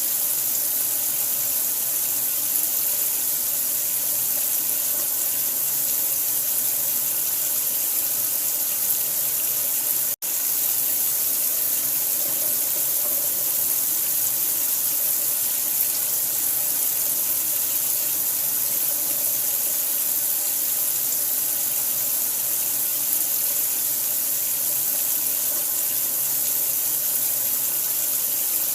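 Steady rushing of running water, an even hiss strongest in the high end, with a split-second drop-out about ten seconds in.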